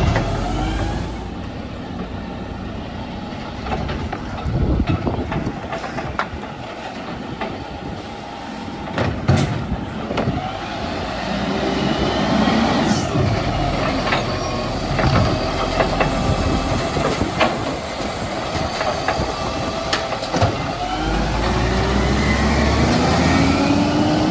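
Garbage truck working: its engine running with several sharp clanks and knocks, then revving up with a rising pitch near the end. Wind buffets the microphone with a low rumble.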